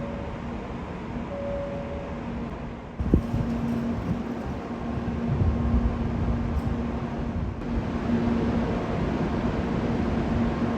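Shinkansen train running, a steady rumble with a low hum; a sharp knock about three seconds in, after which it gets louder.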